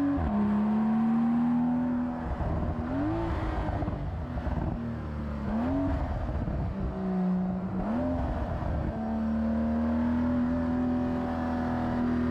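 Porsche 911 Carrera 4S's twin-turbo flat-six engine pulling under load. Its pitch drops on a gear change just after the start, rises quickly three times around the middle, then climbs steadily.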